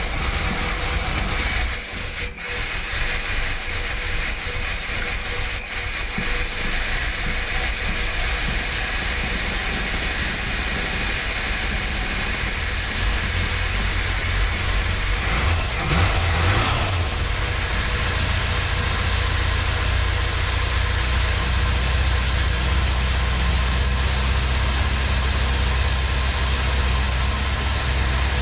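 The 1979 Lincoln Continental's 400 cubic inch (6.6 L) V8 running steadily over a constant hiss; a deeper, heavier rumble sets in about halfway through and holds.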